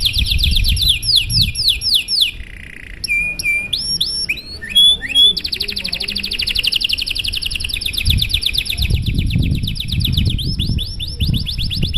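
Domestic canary singing a long, unbroken song. Fast rolling trills of rapidly repeated notes alternate with slower sweeping whistled notes, with a brief buzzy note about two and a half seconds in.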